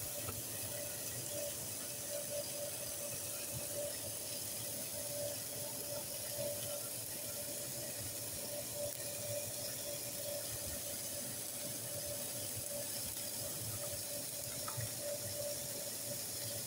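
Peas, carrots and edamame sautéing in an electric skillet, giving a steady soft sizzle, with a faint steady hum underneath.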